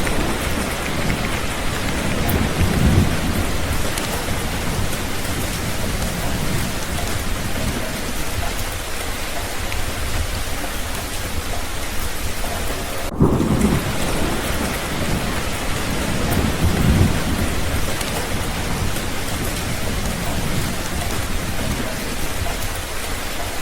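Steady rain falling, with low rolls of thunder swelling three times: about three seconds in, just past halfway and about two-thirds through. A brief cut in the sound comes just before the middle roll.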